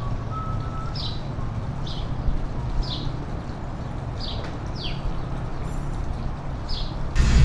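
A bird chirping repeatedly, short falling chirps roughly once a second, over a steady low hum. Loud music cuts in abruptly near the end.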